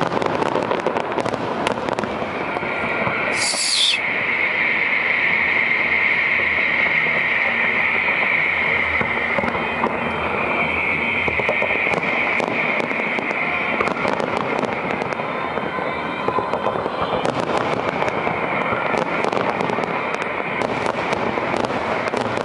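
Fireworks display: a run of bangs and crackles, with a steady high-pitched hiss through much of it and a single falling whistle a few seconds in.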